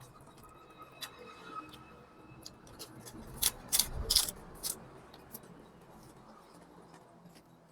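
A person eating instant noodles close to the microphone: small wet mouth clicks and chewing, with a burst of louder smacks about three and a half to four and a half seconds in.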